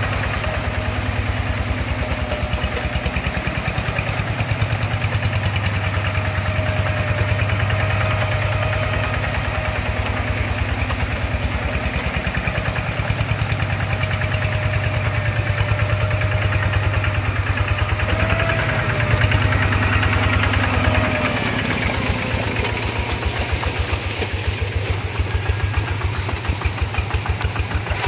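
Single-cylinder diesel engine of a two-wheel rice-paddy hand tractor running steadily under load. About three-quarters of the way through its beat changes and becomes slower and more distinct, as the load or throttle changes.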